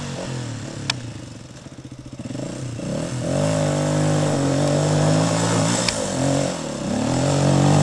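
Dirt bike engine running under way, its pitch dropping about two seconds in, then rising and holding before easing off and climbing again near the end. A sharp tick sounds about a second in and another about six seconds in.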